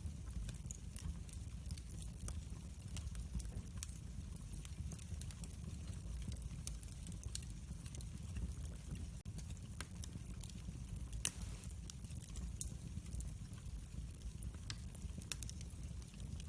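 Wood fire burning, with a steady low rumble and irregular sharp crackles and pops, one louder pop about eleven seconds in.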